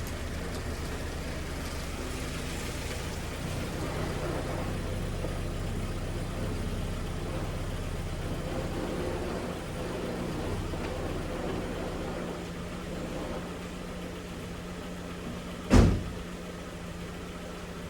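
VW Passat's engine running steadily as the car is driven, with one sharp thump near the end.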